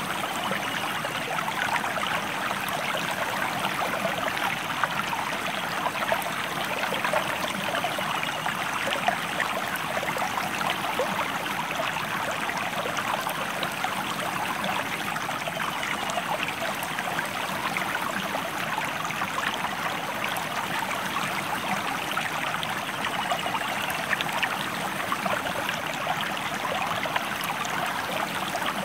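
Shallow river or stream flowing steadily, a constant rushing babble of water over rocks.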